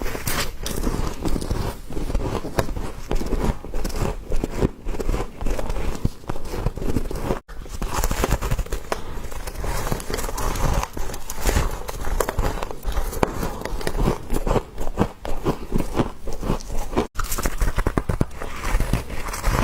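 Frost being bitten and chewed close to the microphone: a dense, steady run of crisp crunches and crackles.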